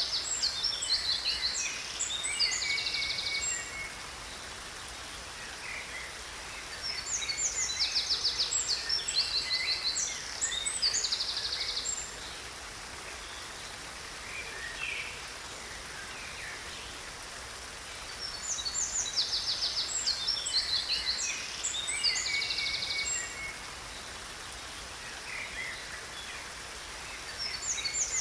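Songbirds singing in bouts of high chirps and fast trills, a bout about every nine to ten seconds, over a steady rush of falling water.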